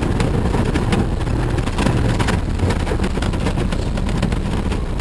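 Jeep driving on a rough dirt road, the engine running steadily under a low rumble, with frequent small knocks and rattles over the bumps.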